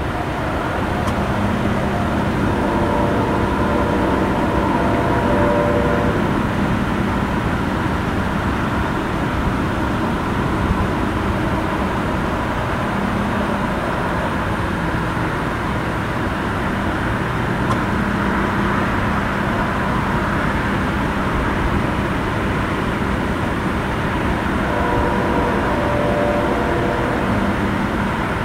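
A train passing close by: a steady rumble with faint humming tones that come and go.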